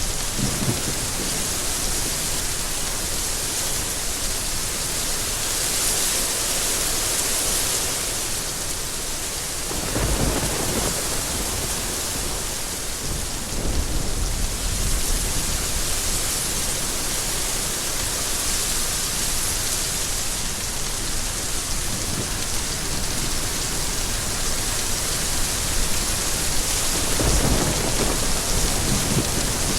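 Steady rain falling hard, with low rolls of thunder about ten seconds in and again near the end.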